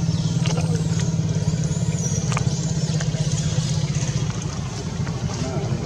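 A motor engine running steadily, a low hum with a fast even pulse, with a few faint high chirps about two seconds in.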